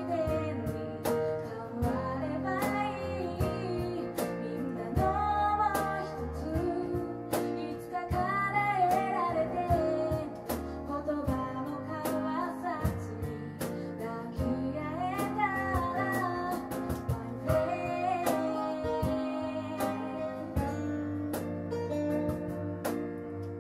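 Live acoustic band music: a female voice singing over strummed acoustic guitar, with keyboard and light percussion hits keeping a steady beat.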